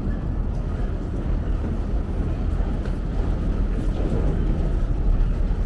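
Commuter train running, a steady low rumble.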